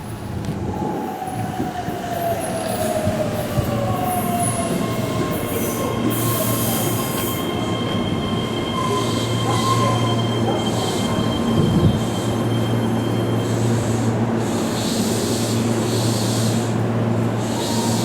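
Keihan electric train pulling into a curved elevated station. The motor whine falls in pitch as it brakes, the wheels squeal on the curve, and then a steady low hum remains as it stands.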